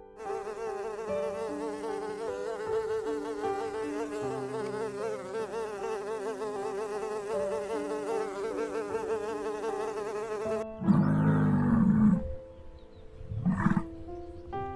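Honeybees buzzing at a hive entrance: a dense, wavering hum of many wings. About eleven seconds in this gives way to a musk ox's loud, low bellowing call, followed by a shorter call a couple of seconds later.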